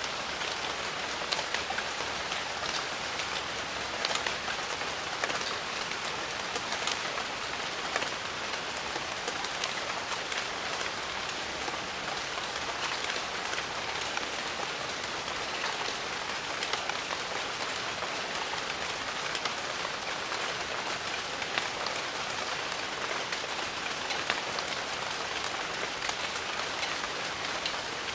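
Steady rain falling in a jungle, an even hiss with many separate drops striking leaves and surfaces close by.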